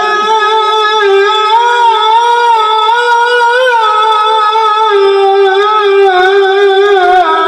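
Sholawat sung by a single voice in one long, unbroken melismatic phrase, the held pitch wavering through small ornamental turns.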